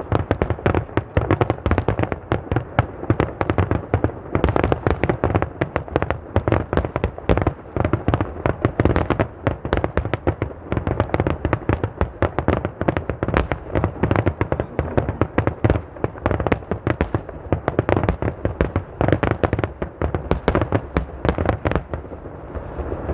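Fireworks display in a dense, continuous barrage: aerial shells bursting several times a second, with loud bangs and crackling.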